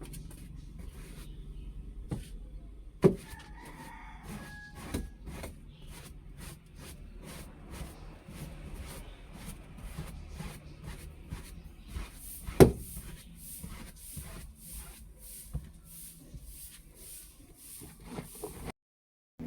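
Scattered clicks and knocks from cleaning inside a car, with two sharper knocks about three seconds in and again around twelve seconds, and a run of evenly spaced brushing strokes in the second half. A rooster crows faintly in the background about four seconds in.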